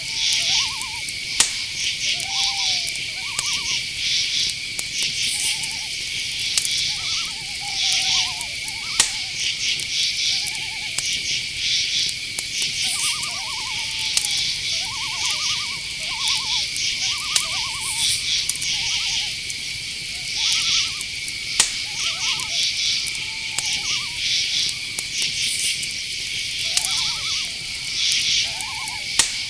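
Night chorus of crickets and other insects chirping in a steady high trill, with many short, rapidly trilled calls at a lower pitch scattered through it and a few sharp clicks.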